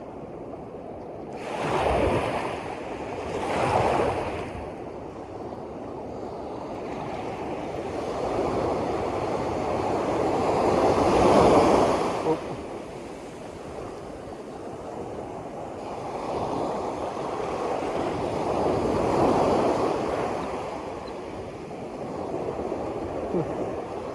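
Waves washing in slow surges, the rushing noise swelling and fading: two short surges in the first few seconds, then two longer, louder ones.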